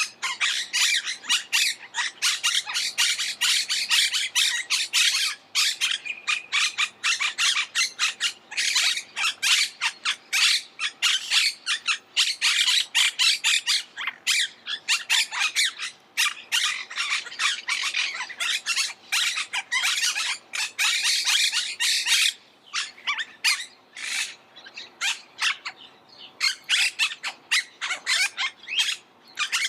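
Monk parakeets squawking: a steady stream of rapid, harsh, chattering calls from several birds, with only brief gaps.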